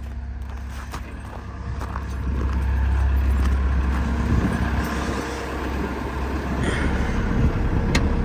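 Cat 914 wheel loader's diesel engine running, revving up about two seconds in as the bucket is worked to raise the front wheel off the ground, with a sharp click near the end.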